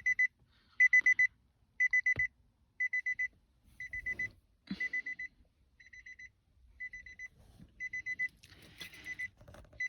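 A car's door-open warning chime: short groups of rapid high beeps repeating about once a second, the signal that a door is standing open.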